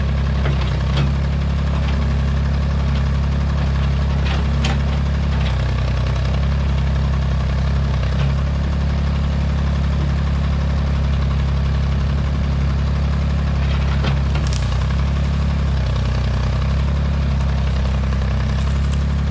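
Old Massey Ferguson backhoe's engine running steadily, with a few short knocks or clanks about four and a half and fourteen and a half seconds in.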